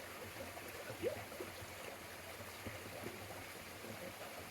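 Mountain stream running steadily, with a faint brief sound about a second in.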